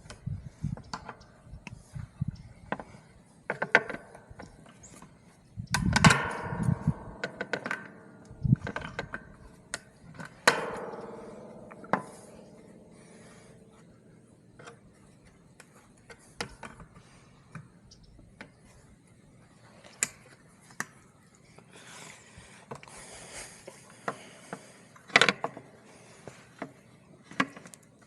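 Hand work on fence wire: scattered metal clicks, rattles and ratcheting knocks, with two louder clanks about six and ten seconds in that ring out briefly.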